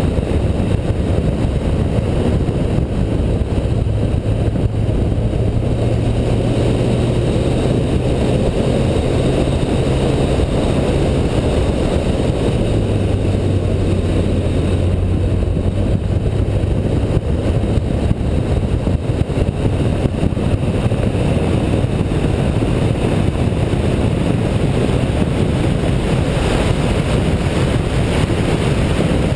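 Car engine running hard at speed, mixed with dense wind and road noise. The low engine note holds steady, then steps down in pitch about twelve seconds in.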